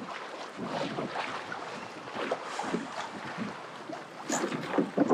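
Water splashing and lapping against a kayak hull, with wind buffeting the microphone.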